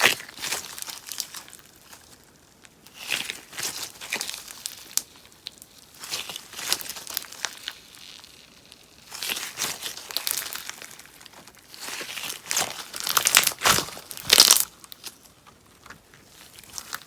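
Popping sponge slime being worked by hand, giving dense crackly popping in about five bouts of one to two seconds each, with short quiet gaps between; the last bout is the loudest.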